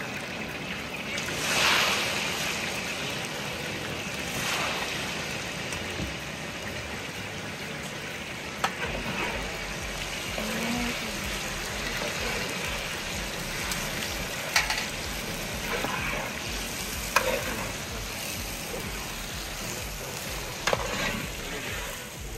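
Plov frying in a large cooking pot: a steady sizzle, swelling as it is stirred, with a metal utensil knocking against the pot now and then.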